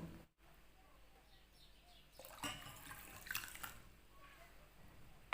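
Water poured from a cup into a saucepan of chopped banana peel, rice and flaxseed: faint splashing and dripping, with two short splashes about two and three and a half seconds in.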